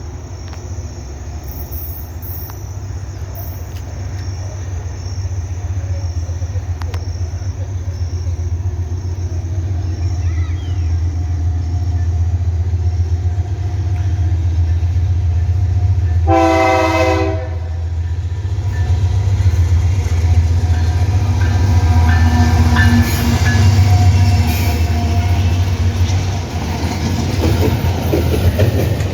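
Two Wabtec AC44i diesel-electric locomotives approaching, their deep engine rumble growing steadily louder. One short horn blast of about a second sounds a little past halfway. Near the end, wheel and rail noise builds as the lead locomotive draws close.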